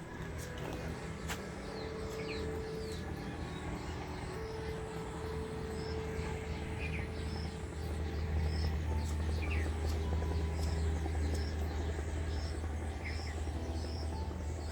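Small birds chirping, short high notes repeating about once a second with an occasional quick falling call, over a steady low rumble that grows louder about eight seconds in.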